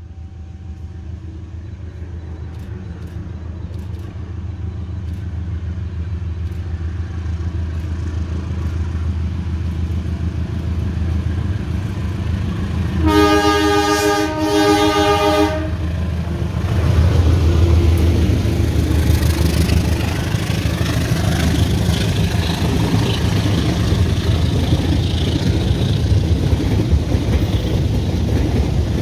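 CC 201 diesel-electric locomotive approaching, its engine rumble growing steadily louder; about halfway through it sounds its horn in two blasts close together. It then passes, followed by the steady wheel-on-rail noise of the passenger coaches running by.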